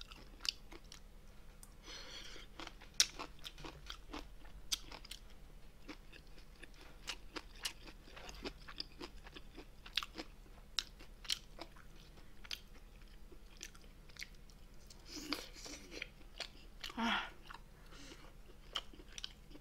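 Close-miked chewing and crunching of agujjim, spicy braised monkfish with bean sprouts: irregular wet crunches and sharp mouth clicks, fairly quiet.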